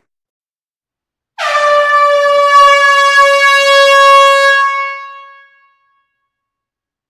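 A single long air horn blast: one steady, high tone that starts abruptly about a second and a half in, holds for about three seconds, then fades away.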